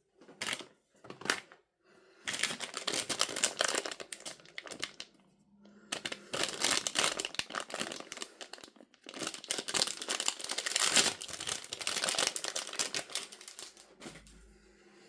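Crinkly packaging being handled and crumpled: two short crackles at the start, then long runs of dense crinkling with brief pauses between them.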